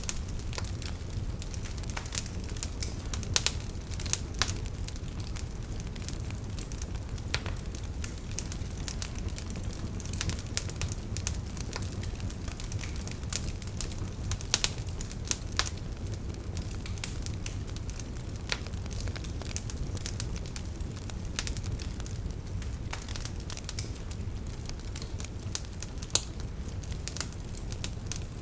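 Wood campfire burning: a steady low rumble of flames with irregular sharp crackles and pops of burning firewood, a few louder snaps now and then.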